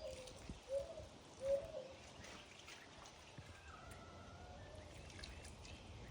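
A bird calling: three short, low, slightly arched notes in the first second and a half, then a fainter higher call about four seconds in, over a quiet outdoor background.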